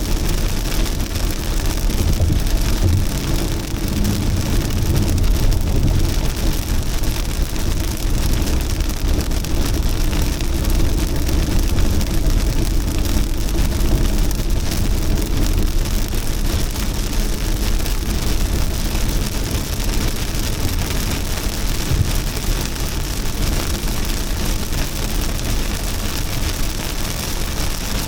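Heavy rain falling steadily, a dense even hiss over a deep low rumble.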